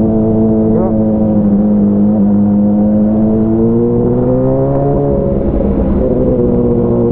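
Motorcycle engine running through an Avionic aftermarket exhaust at fairly steady revs while riding. The revs ease down slightly, climb about four to five seconds in, then settle back.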